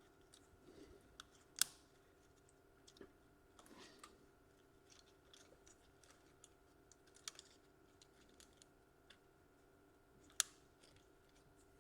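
Near silence with sparse small clicks and taps of hands handling laptop parts and tools, two sharper clicks about a second and a half in and near the end, over a faint steady hum.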